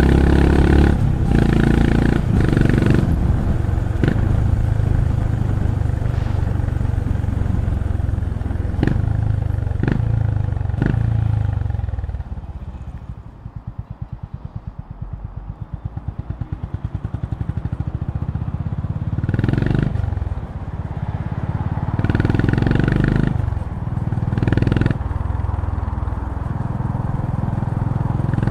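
Honda GB350's single-cylinder engine heard from the rider's seat, running steadily under way with a few sharp clicks. Around the middle it drops off to slow, even firing pulses as the bike slows in traffic. Near the end it picks up again in several short surges of throttle.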